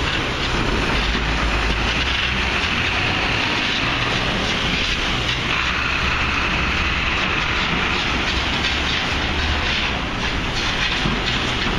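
Steady loud city construction-site noise: a continuous low rumble with a hiss on top.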